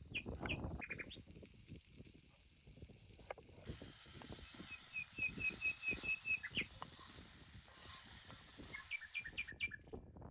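A small bird chirping: a few short chirps at the start, a quick even run of about eight chirps in the middle, and a few more near the end, over scattered soft crackles and knocks.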